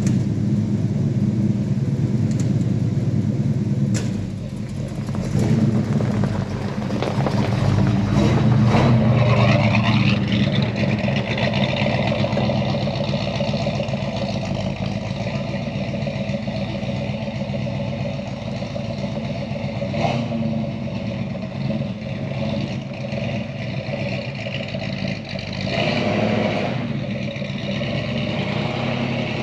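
Ford 400 V8 of a 1980 Ford Bullnose F-series pickup running steadily, its revs rising to the loudest point around eight or nine seconds in and again briefly near the end. Two sharp clicks come through the engine noise, about four and twenty seconds in.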